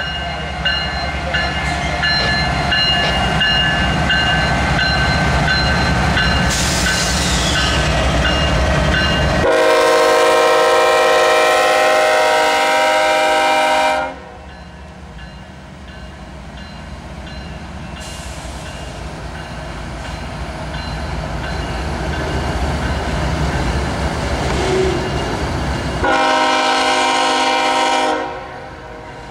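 Norfolk Southern ES44AC diesel locomotives rolling slowly past at close range, their engines giving a deep rumble. About ten seconds in the train's air horn sounds one long blast of about four seconds, and near the end a shorter blast of about two seconds, over the rumble of the passing train.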